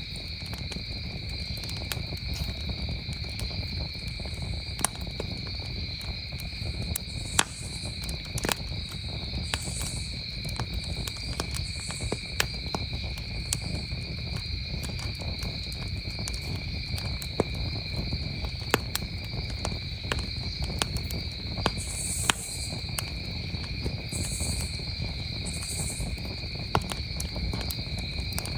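Campfire crackling with scattered sharp pops, a few louder than the rest, over a steady low rumble, while crickets trill without pause at a high, even pitch.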